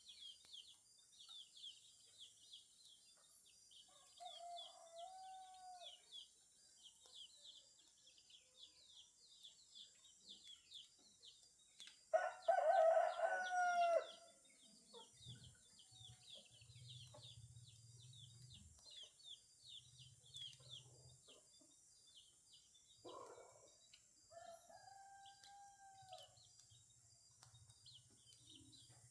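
A rooster crows loudly once about twelve seconds in, with two fainter crows from farther off before and after. Constant rapid high chirping runs underneath, and a low hum comes and goes in the second half.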